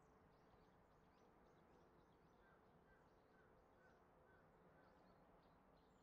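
Near silence with faint, scattered bird chirps. In the middle, one bird repeats a short call about six times, roughly twice a second.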